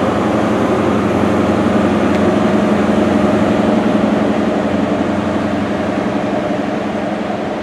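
Rear Class 43 power car of a Great Western Railway HST pulling out, its diesel engine running steadily under power and easing slightly toward the end.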